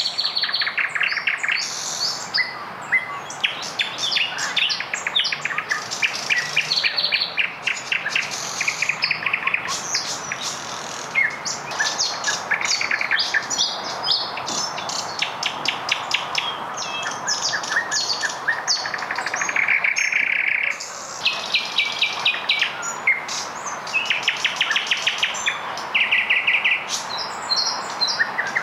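Three nightingales singing at once in overlapping phrases of fast repeated notes, trills and sharp clicks.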